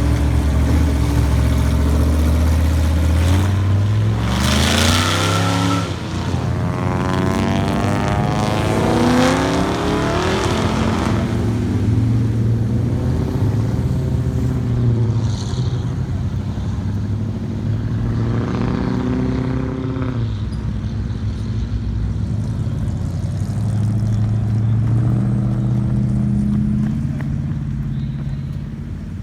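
Car engine revving several times, its pitch climbing and then falling back to a loud idle between revs.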